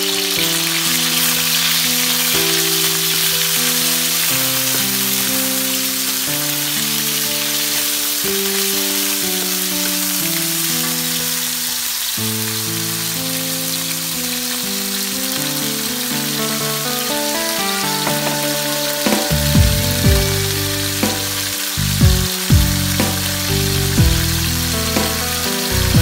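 Sliced beef and chopped garlic sizzling in oil in a hot wok, as a steady hiss. Background music plays over it, and a heavy beat comes in about three-quarters of the way through.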